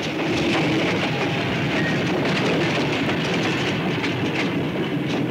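Train running at speed: a steady, loud rumble and rattle of the cars, with the clatter of wheels over the rail joints.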